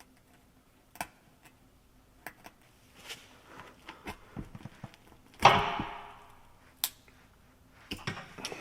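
Tools and parts being handled at a workbench: scattered clicks and light taps, then one loud metallic clank about five and a half seconds in that rings briefly, and a few quick knocks near the end.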